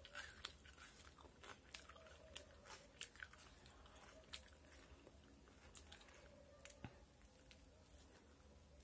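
Faint chewing and biting of crispy fried chicken: scattered soft crunches and mouth clicks.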